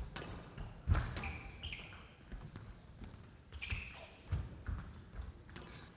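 Squash rally: sharp knocks of the ball off racket and walls, about a second in and twice more later, with players' shoes squeaking on the court floor in between.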